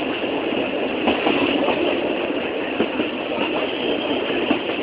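A train running, with a steady rumble and rattle and scattered short knocks.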